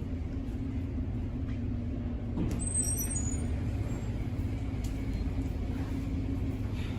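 Steady low rumble of running vehicles, with a brief high-pitched squeak about three seconds in.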